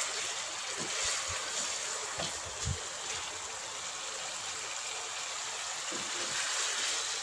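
Chicken pieces sizzling steadily in oil in a nonstick pan as they are fried dry after the yogurt liquid has cooked off, with a few soft knocks of a wooden spatula stirring them.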